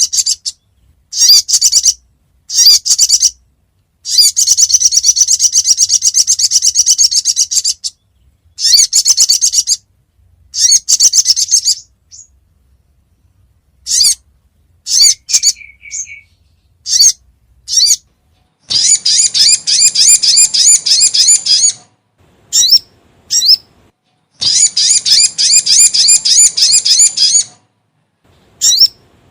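Recorded song of a sogon (sogok ontong) bird played as a lure call: loud, high-pitched rapid chirping trills in phrases of one to four seconds, broken by short pauses and a few single sharp notes.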